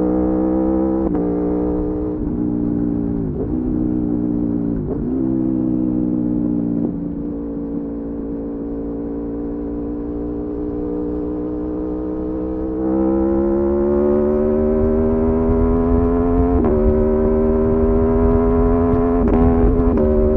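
Aprilia Tuono V4 motorcycle's V4 engine under way, with several quick gear changes in the first few seconds, then a steady cruise. About two-thirds of the way in it pulls harder, louder and rising in pitch, with further gear changes near the end.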